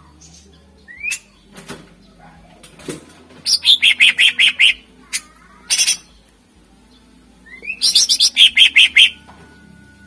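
Cucak ijo (green leafbird) singing in loud phrases: a short rising whistle, then a fast run of sharp repeated notes. The phrase comes twice, once about a third of the way in and again near the end.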